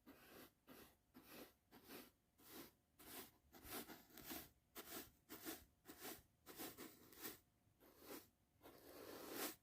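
A brush sweeping in rapid repeated strokes for close-up ASMR, a little over two strokes a second, with one longer, louder stroke near the end.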